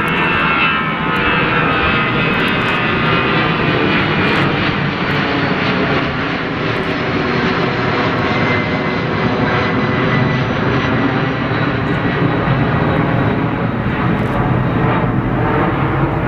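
Jet airliner engines running loud and steady, with a high whine that sinks slightly in pitch over the first few seconds.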